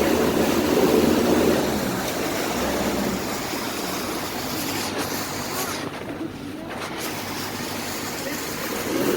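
Passenger launch boat's engine running steadily, with water and wind noise. It eases off and gets quieter about two seconds in.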